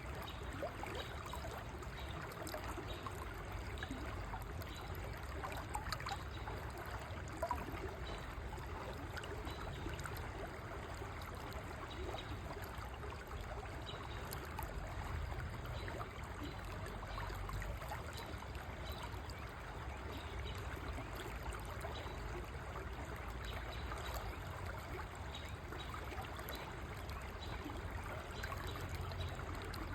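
River water flowing steadily over rocks, a continuous trickling and gurgling.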